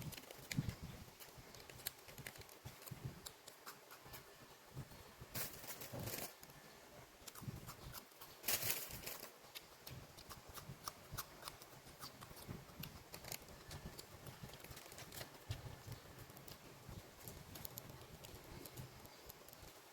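Close-miked eating sounds of someone chewing bread: irregular soft clicks and mouth noises, with two longer, louder bursts about six and nine seconds in.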